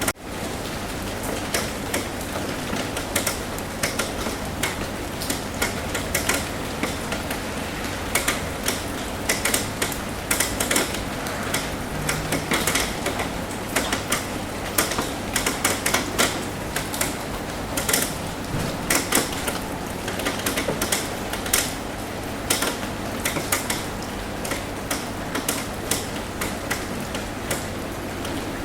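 Rain on a roof: a steady patter with many irregular, sharp drops tapping, some loud and close.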